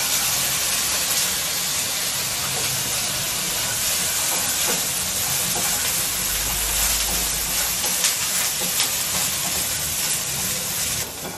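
Sliced fresh coconut sizzling in a teaspoon of hot oil in a nonstick tava, a loud, steady hiss, with light scrapes of a wooden spatula stirring the pieces. The sizzle eases a little near the end.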